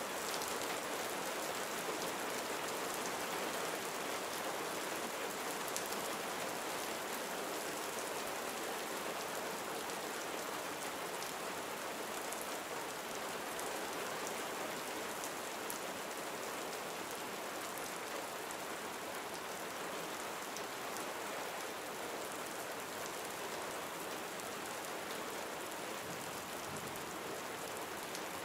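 Gentle rain falling steadily: an even hiss with a fine patter of drops, unchanging throughout.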